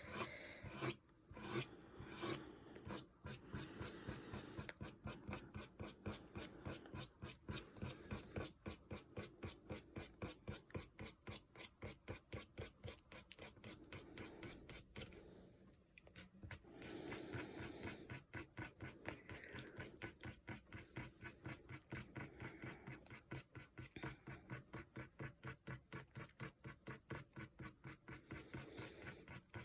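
Faint scratching of a fine-liner ink pen on watercolour paper, drawn in quick repeated strokes about two to three a second, with a short pause about halfway through.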